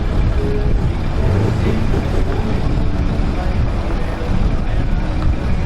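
Tractor engines running, a steady, dense low rumble with no break.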